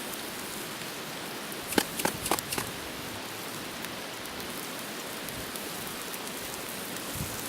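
Pork chops sizzling steadily on a hot grill, with a few sharp clicks about two seconds in.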